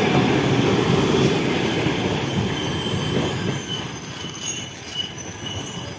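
A train running along the track, with a steady heavy rumble of wheels on rails and a thin high-pitched wheel squeal that sets in about half a second in and carries on.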